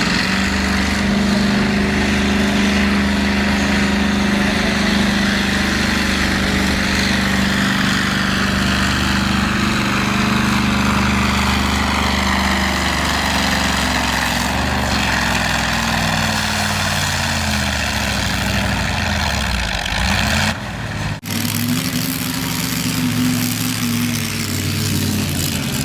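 Naturally aspirated pulling tractor's engine running hard under load. Its pitch holds steady at first, then slowly falls over several seconds as the engine speed sags. The sound breaks off sharply near the end, then the engine is heard running again.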